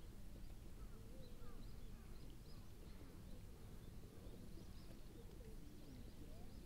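Faint outdoor background with scattered short bird chirps.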